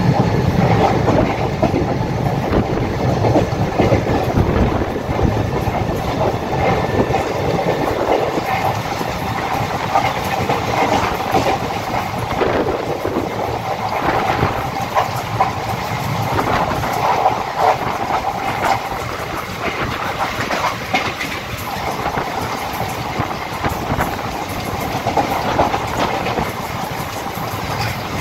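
Mumbai suburban electric local train running steadily at speed, heard from aboard: a constant rumble of steel wheels on the rails with irregular clicks and clacks over rail joints.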